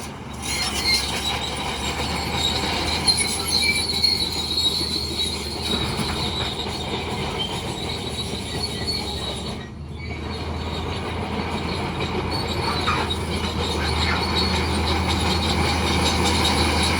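Crawler bulldozer running, its engine a steady low hum, with the steel tracks squealing and clanking as it moves. The sound briefly drops out near the start and again about ten seconds in.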